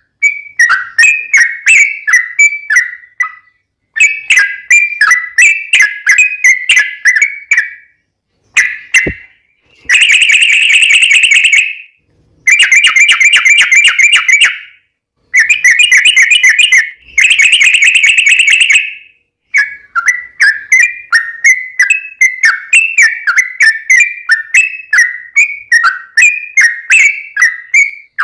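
Yellow-vented bulbul singing a long run of bubbly, chattering phrases. Near the middle come four dense, rapid-fire bursts that are louder and harsher, separated by short pauses.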